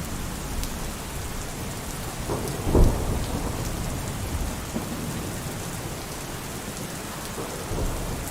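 Steady heavy rain falling, with a thunderclap rumbling about three seconds in.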